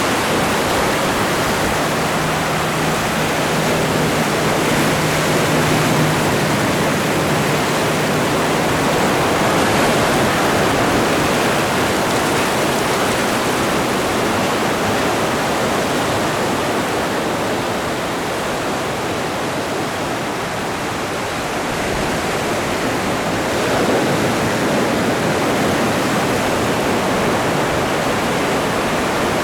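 Ocean surf washing continuously in a dense, even rush, swelling gently and easing back every few seconds as waves break.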